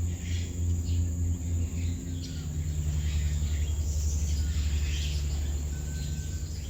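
Several birds chirping and calling in short scattered notes, with a brief thin whistle near the end, over a steady low rumble and a continuous high insect-like hiss.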